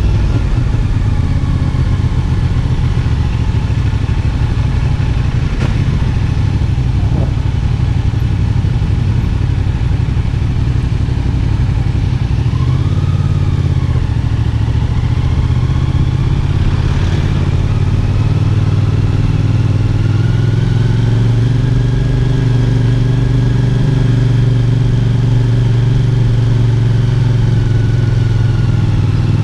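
CFMoto 450SR S parallel-twin engine running under way at mostly steady revs. The revs dip and pick up briefly about halfway through, then rise gradually and ease off again near the end.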